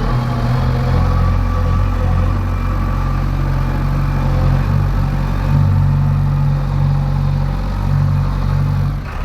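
Heavy diesel engine running steadily, its pitch rising somewhat about five and a half seconds in, with a brief dip just before the end.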